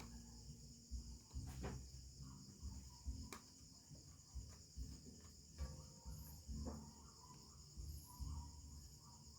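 Steady high chirring of insects, with quiet irregular low knocks and handling rustles and two sharp clicks.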